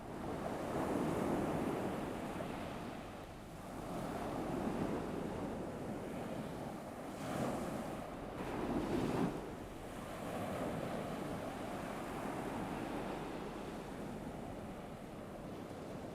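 Ocean waves washing onto a shore, swelling and receding every few seconds: a gentle surf sound-effect bed.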